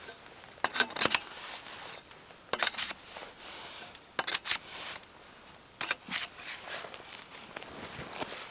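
Handling noise: short clusters of sharp clicks and light knocks, coming about every one and a half to two seconds.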